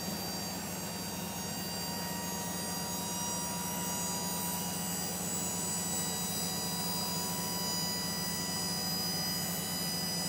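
Dump truck's hydraulic pump running steadily to raise the dump bed, a constant whine over a low hum.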